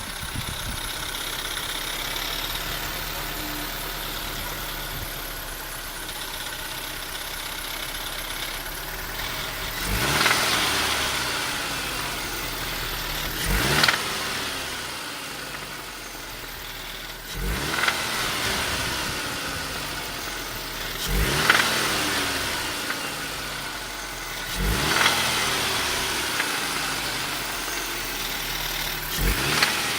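BMW E46 318i's M43B19TU four-cylinder engine idling, then revved in six sharp throttle blips about every three and a half seconds, each falling back to idle. The uploader reports a knocking from under the valve cover on the sudden throttle.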